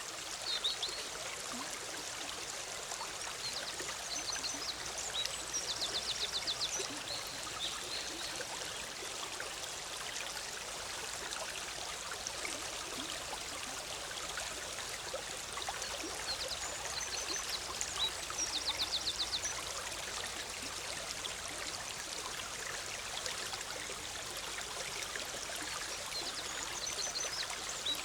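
Big Sur River flowing and bubbling steadily over rocks. A songbird sings three times, about twelve seconds apart, each time a short high phrase ending in a fast trill.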